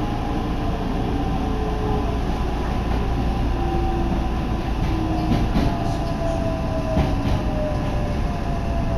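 Electric commuter train running, heard from inside the car: a steady low rumble with a faint whine slowly falling in pitch, and a few brief clicks from the wheels and track about halfway through.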